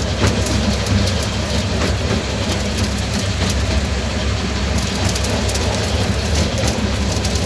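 Miniature railway train running along the line: a steady low rumble with scattered clicks from the wheels on the track.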